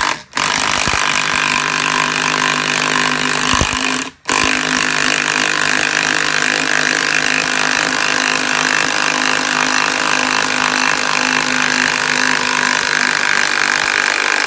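Handheld power tool running steadily as it drives the threaded screw of a welded C-clamp bead breaker down onto a motorcycle tire to break the bead. The trigger is let off briefly right at the start and again about four seconds in.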